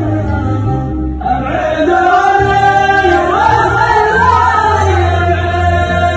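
Arabic song: a singer's voice enters about a second in with a slow, bending melody over a steady low backing.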